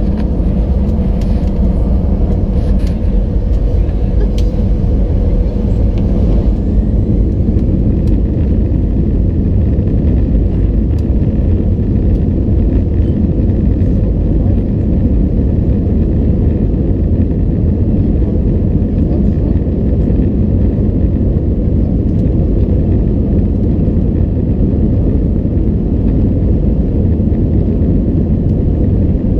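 Steady rumble of an Airbus A320's engines and airflow heard from inside the passenger cabin, with a faint steady tone and a few light clicks that fade out about six seconds in.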